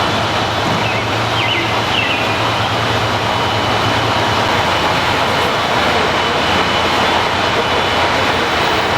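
JNR-era diesel railcar running on the rails, a steady loud rumble with a low engine hum that drops away about halfway through.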